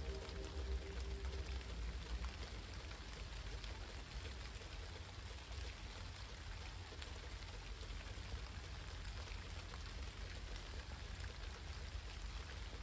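Steady rain falling, with individual drops ticking, over a low rumble.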